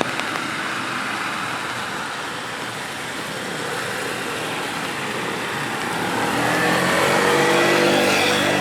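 Steady hiss of rain on a wet street, with a car driving past in the last few seconds: its engine hum and tyre noise grow louder to a peak near the end.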